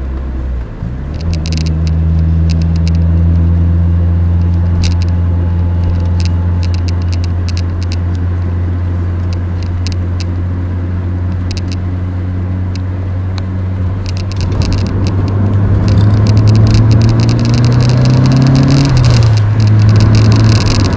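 Nissan FJ20ET turbocharged four-cylinder engine of a DR30 Skyline, heard from inside the cabin while driving. It holds a steady drone after a brief dip about a second in, then the revs rise for a few seconds and fall away near the end, with sharp clicks and rattles throughout.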